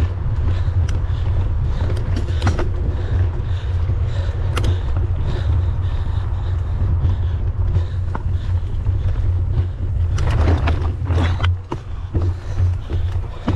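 Wind rumbling on the microphone of a camera riding along on a mountain bike, with scattered clicks and rattles from the bike on rough ground, a burst of them about ten seconds in.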